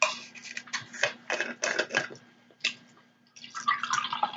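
Drinking water up close: a run of short wet gulps and mouth clicks, a pause, then another cluster of gulps near the end.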